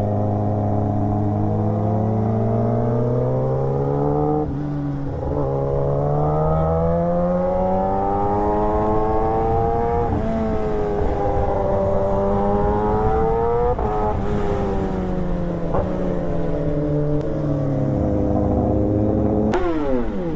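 A vehicle engine accelerating up through the gears: its pitch climbs steadily and drops sharply at each of three upshifts. It then winds down gradually as it eases off. Near the end a quick, sharp rev rises and falls.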